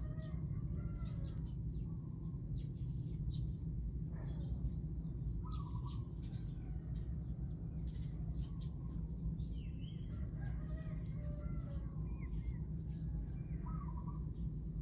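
Outdoor ambience of birds calling now and then, short warbling calls over a steady low rumble.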